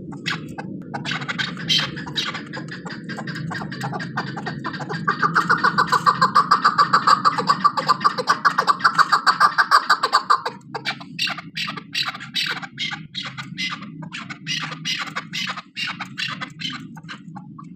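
Female chukar partridge calling: a rapid, rhythmic series of clucking notes, about five a second and loudest in the middle, with looser calls before and after. A steady low hum runs underneath.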